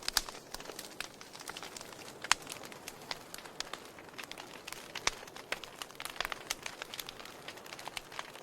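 Wood fire crackling: frequent sharp pops and snaps over a soft hiss, with the loudest pops about two and five seconds in.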